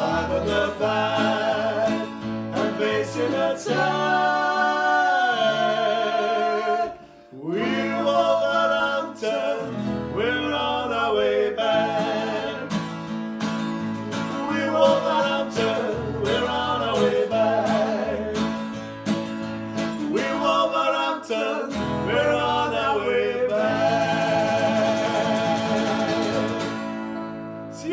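A voice singing a melodic chant over a strummed acoustic guitar, with a brief pause about seven seconds in.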